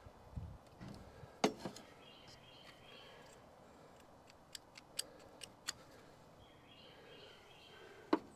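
Quiet outdoor ambience with faint bird chirping and a series of sharp clicks and knocks: a loud one about a second and a half in, a quick run of small clicks in the middle, and another loud one near the end.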